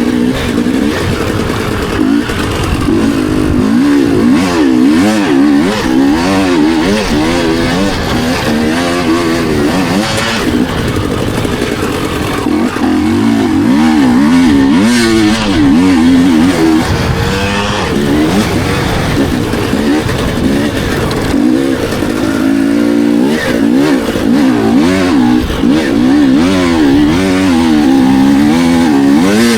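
Dirt bike engine revving hard and backing off over and over, its pitch repeatedly climbing and falling as it is ridden round a motocross track.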